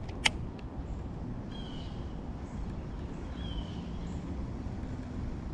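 A bird calling twice with a short, slightly falling whistled note, about two seconds apart, over a low steady background rumble. A single sharp click comes about a third of a second in.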